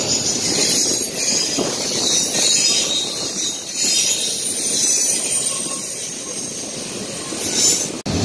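Double-stack intermodal freight train passing close by: steel wheels rumbling on the rails with a steady high-pitched hiss. The sound cuts out for a moment near the end.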